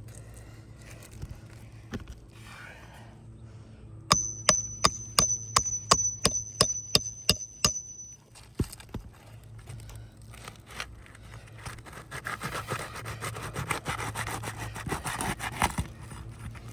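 Hammer tapping a metal roofing snake about a dozen times, roughly three strikes a second, each with a high metallic ring, as the tool is driven under asphalt shingles to break their seal. A few seconds later comes a rough scraping as the tool is worked along under the shingles.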